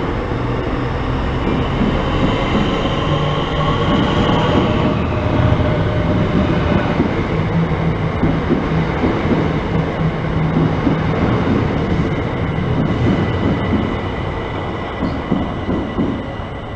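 Southeastern electric multiple-unit train running through the station: a steady loud rumble of wheels on the rails, with the motors whining in tones that shift slightly in pitch.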